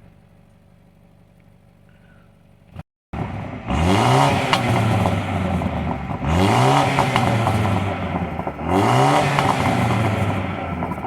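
BMW M135i xDrive's turbocharged four-cylinder petrol engine heard at the exhaust: idling quietly, then revved three times about two and a half seconds apart. Each rev climbs quickly, holds briefly and drops back toward idle.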